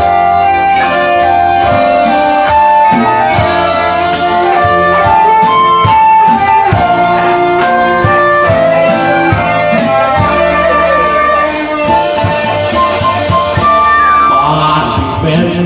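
Instrumental break of a Thai lae song played by a live band: a keyboard carries the melody over bass and a steady drum beat.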